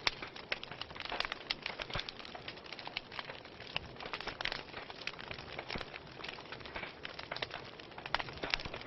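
Wood fire burning in a fireplace: a steady hiss with dense, irregular crackles and pops, several sharper pops standing out.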